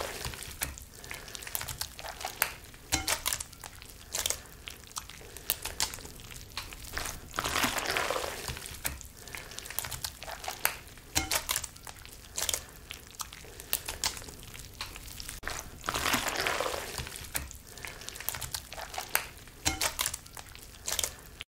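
A spoon scraping and knocking against a plastic measuring jug and a bowl as thick pumpkin puree is scooped and transferred, with many small clicks and soft wet sounds. Three longer noisy swishes come about eight seconds apart.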